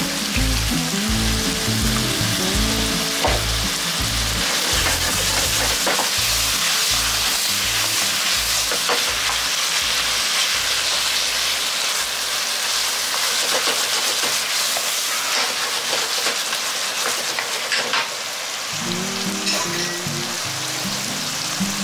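Eggplant, ground pork and vegetables sizzling in a hot frying pan while a wooden spatula stirs them, with scattered scrapes and taps of the spatula against the pan.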